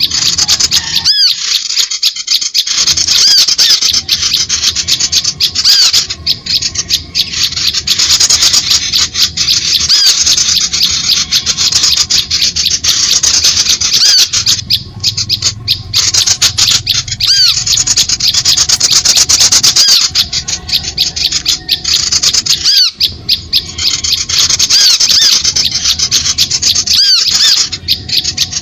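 Bird-lure recording of small birds: a dense, continuous high-pitched chatter of rapid squeaky calls, many overlapping at once, with only brief breaks.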